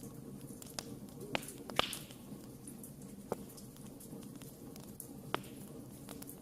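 Wood campfire crackling: a handful of sharp, scattered pops over a low steady background, the loudest about two seconds in, followed by a brief hiss.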